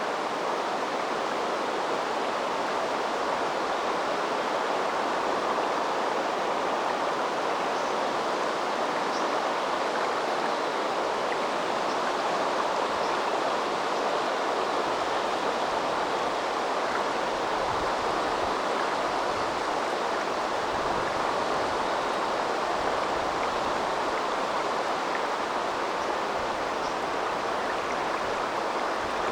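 A river flowing steadily, a constant rushing babble of water.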